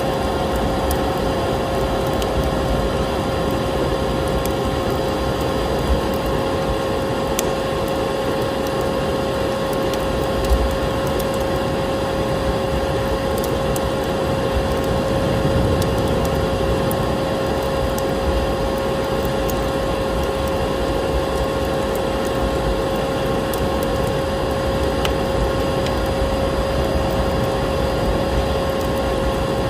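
Vacuum cleaner running steadily with a constant whine, layered with a wood fire crackling in a fireplace. There are scattered small crackles and two louder pops, about 6 and 10 seconds in.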